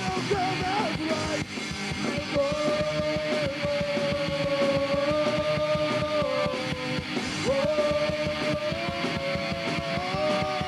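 Punk rock band playing: distorted electric guitars and fast, busy drums, with long held notes sung or played over the top.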